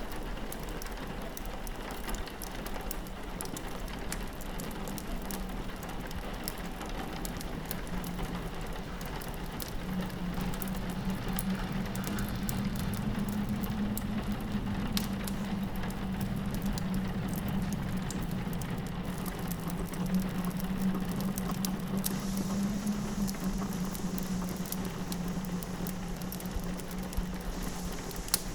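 Wood fire crackling in a fireplace with rain pattering on a window glass, under a low steady wind howl that grows stronger about ten seconds in.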